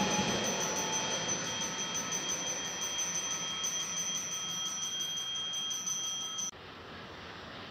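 A double-deck electric train rumbling away into the distance and fading, with steady high-pitched ringing tones from the rails and wheels held over it. The sound cuts off abruptly about six and a half seconds in, leaving a quieter background hum.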